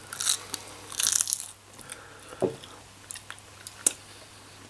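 A person biting and chewing barbecued meat off the bone. There are crunchy bites about a third of a second in and again about a second in, then scattered small clicks of chewing.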